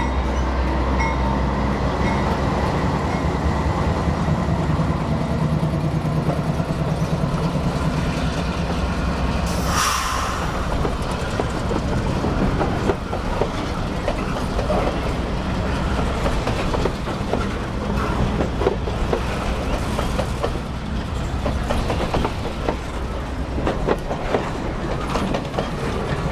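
Canadian Pacific Holiday Train departing. The diesel locomotive's engine hums low for the first ten seconds or so, with a brief hiss around ten seconds in. Then the passing rail cars rumble, their wheels clicking steadily over the rail joints.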